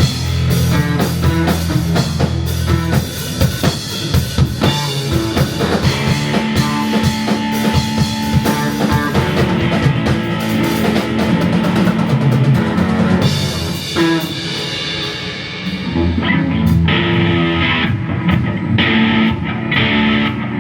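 Live psychedelic rock band playing an instrumental passage, with a busy drum kit, bass and electric guitar. The cymbal wash drops out about thirteen seconds in, leaving a sparser guitar-led groove.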